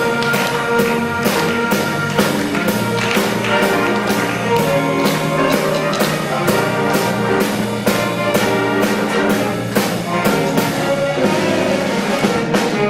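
School concert band playing a piece, with brass and held chords over a steady percussion beat.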